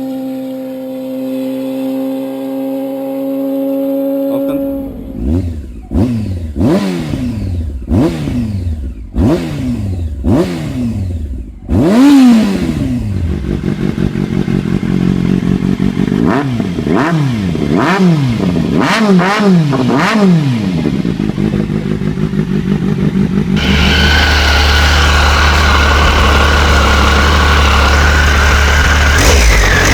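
Motorcycle engines being revved: a steady engine note gives way, about four seconds in, to a long series of quick throttle blips, each rising and falling sharply. Past the two-thirds mark this changes to a steady, constant engine sound.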